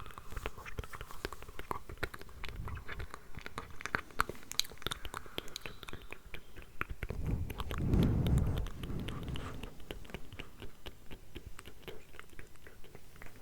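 Layered ASMR mouth sounds close to the microphone: a dense run of quick clicks throughout. About eight seconds in, a louder swell of low noise lasts about a second and a half.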